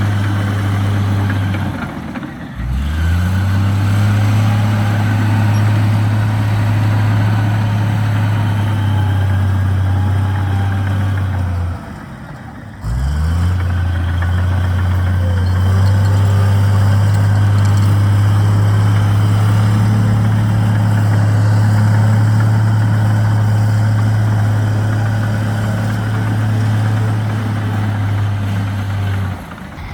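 Heavy diesel engine of earthmoving machinery running with a steady low drone. It dips briefly about two seconds in and again about twelve seconds in, each time climbing back up in pitch, and falls off near the end.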